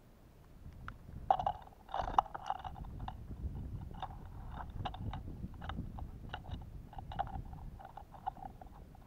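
Crunching, tapping and scraping close to a bird feeder camera's microphone: an animal eating sunflower seed at the feeder, with a low rumble as the feeder is jostled. It starts about a second in, is busiest soon after, then goes on as a string of irregular ticks.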